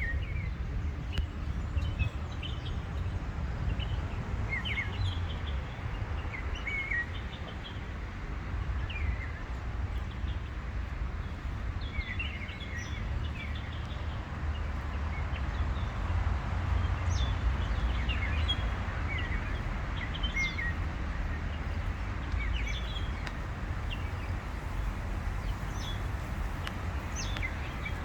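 Wild birds chirping and calling in short, quick notes scattered throughout, over a steady low rumble.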